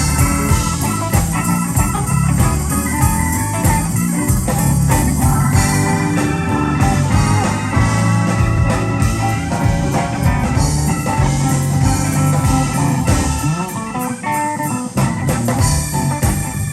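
Live blues band playing an instrumental passage: guitar lead over organ, bass and drums.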